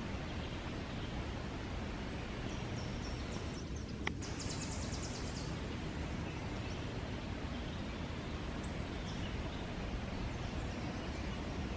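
Wind buffeting the microphone, a steady low rumble under an even outdoor hiss. A brief high rapid trill comes about four seconds in, alongside a single sharp click.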